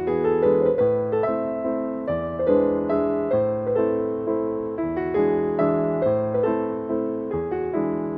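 Background piano music: a slow, gentle melody over chords, each note struck and left to fade.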